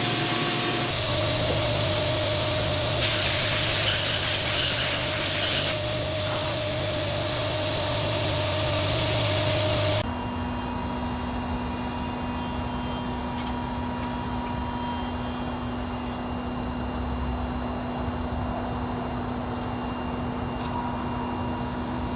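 CNC lathe running with loud hiss and steady whine of a cut in progress, which stops abruptly about ten seconds in, giving way to a quieter steady machine hum with a low tone.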